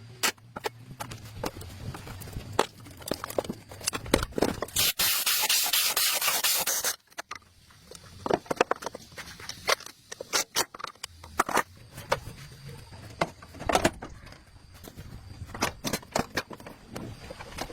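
Repair work on the mini excavator: scattered clicks, knocks and scraping of hand work on metal parts, with a steady burst of hissing about five seconds in that lasts about two seconds.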